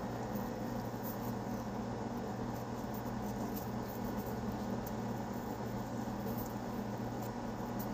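Steady low background hum with a faint hiss, with a few faint, scattered clicks of a knife cutting a raw potato into a spiral.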